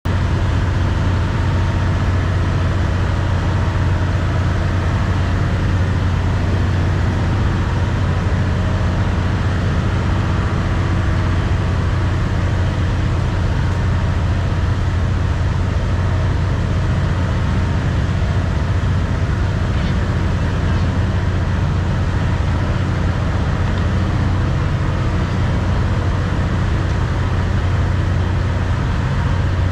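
Train on the Death Railway running steadily: a continuous low drone and rumble with no breaks.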